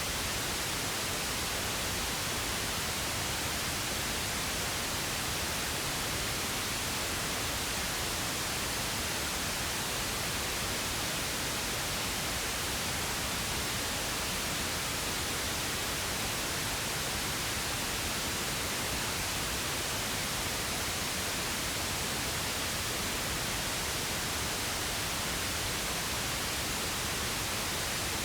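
Steady pink noise: an even, unchanging hiss spread across the whole range, with no variation.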